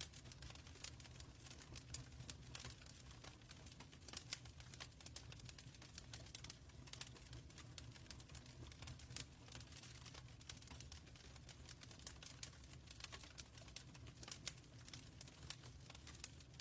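Wood fire crackling in a fireplace: a steady low rumble of flames with irregular sharp pops and snaps, a few louder than the rest.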